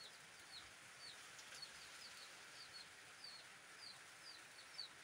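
Faint, repeated high peeping of a bird: short falling notes, two or three a second, over a steady soft hiss.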